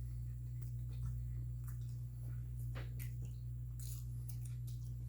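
A person chewing food close to the microphone, with scattered small crunches and wet mouth clicks, over a steady low hum.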